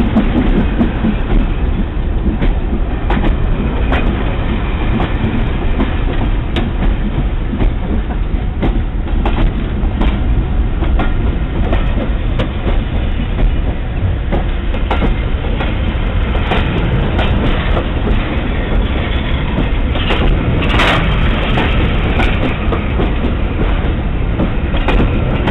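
Railway passenger coaches rolling past close by as the train pulls out, a steady rumble with the wheels clicking over the rail joints. A brief, louder sharp noise comes about three-quarters of the way through.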